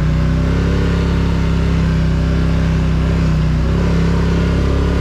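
Polaris Sportsman ATV engine running, its note stepping up as it is given throttle and then holding steady.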